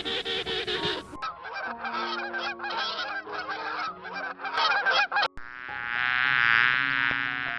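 A quick series of short, repeated animal calls over background music, cut off at about five seconds and followed by a steady, sustained buzzing call.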